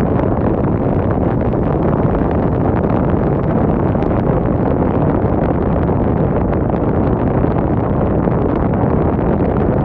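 Wind blowing hard and steadily: a loud, even rushing rumble with no gusts or breaks.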